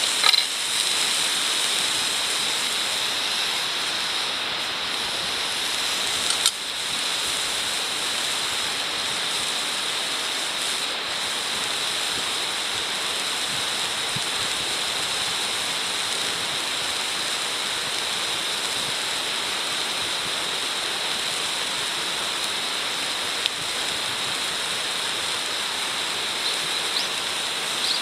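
Food sizzling steadily in a wrought-iron frying pan over a campfire, with a few sharp clicks or taps now and then.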